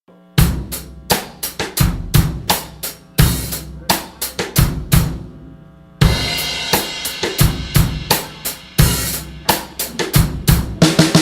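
A drum kit playing on its own, as the intro of a music track: a run of hard, rhythmic drum hits, with cymbals ringing steadily over the beat from about six seconds in.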